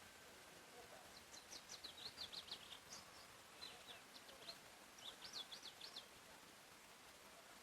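A songbird singing faintly over a steady background hiss: two quick phrases of high, rapid, sweeping notes, the first starting about a second in and the second after a short pause.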